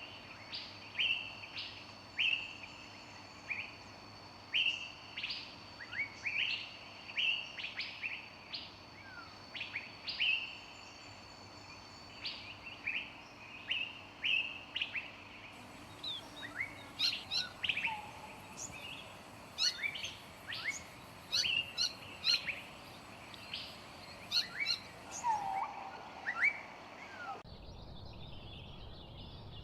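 Several songbirds chirping, short sweeping calls repeated every second or so, growing busier about halfway through. Near the end the birdsong cuts off abruptly to a different, low steady outdoor hiss.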